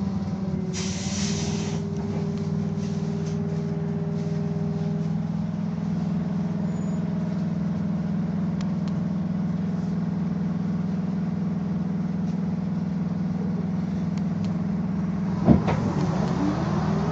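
Inside a Belkommunmash BKM-221 trolleybus: a steady electric hum with a few steady tones, and a short hiss about a second in. Near the end comes a single knock, then a rising whine as the electric drive speeds up.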